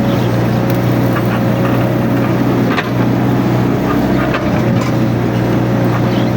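Mini excavator's diesel engine running steadily, with a thin steady whine above it and scattered clicks and knocks.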